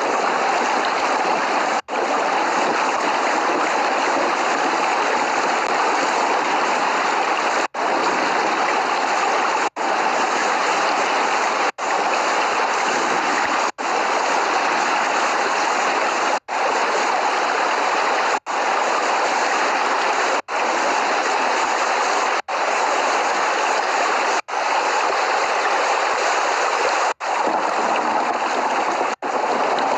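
Steady downpour of rain, an even rushing hiss with no thunder, cutting out for an instant about every two seconds.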